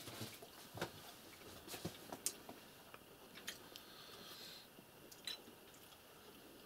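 Faint sounds of a man eating fish by hand: quiet chewing, with a few small, separate clicks and taps scattered through.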